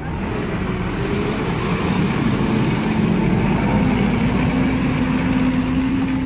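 Heavy truck's diesel engine working hard under load, its note climbing slowly after about two seconds and then holding, with a dense mechanical and road noise around it.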